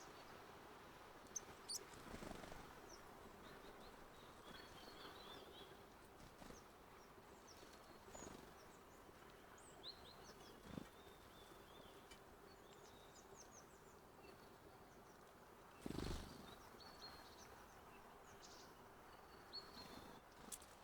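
Small birds chirping faintly and sporadically, short high calls coming every second or two. A few soft knocks break in, the loudest about three-quarters of the way through, over a faint steady hum.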